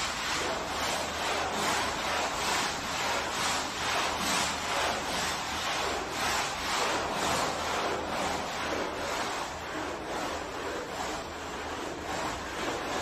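A brush scrubbing a wet, foamy carpet in quick back-and-forth strokes, a rhythmic wet swishing of about two to three strokes a second.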